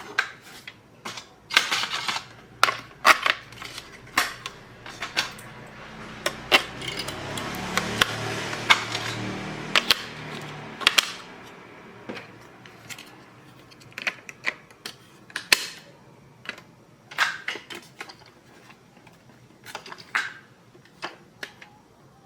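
Irregular sharp clicks, taps and clatter of small hard toy parts being handled during a repair, with a steadier noisy stretch in the middle.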